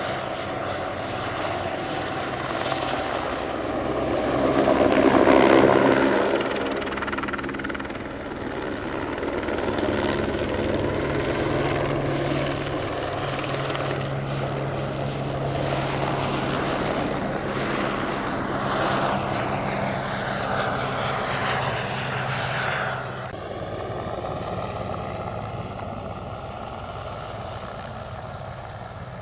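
Light turbine helicopter flying low on a crop-spraying pass, its rotor and turbine swelling to their loudest about five seconds in, then running steadily. About 23 seconds in the sound cuts abruptly to a quieter, more distant helicopter.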